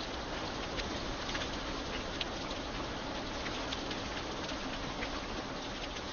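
Steady light rain falling on an iron bridge, an even hiss with single drops ticking sharply here and there.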